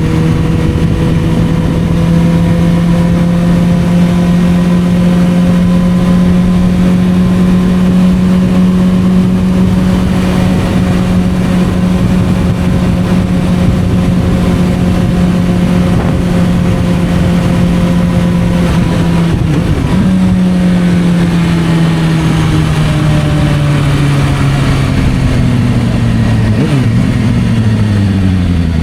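Suzuki GSR600's inline-four engine through a Dominator aftermarket exhaust, running at steady revs while cruising. About two-thirds through the note breaks briefly, then the revs fall steadily as the bike slows.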